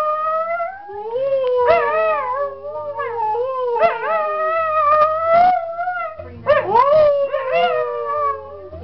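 Pet dog howling: a string of long, drawn-out howls that slide and waver up and down in pitch.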